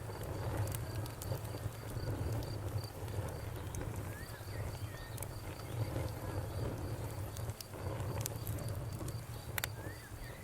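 Campfire crackling, with scattered sharp pops over a low steady rumble. An insect chirps in a fast, even series of short high pulses through the first few seconds, and a few short bird chirps come about halfway through and near the end.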